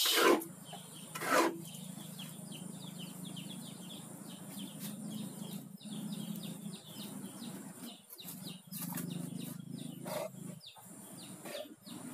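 Small birds chirping in rapid runs of short falling notes over a steady low rumble. Two loud clatters come in the first second and a half, and a few light clicks follow later.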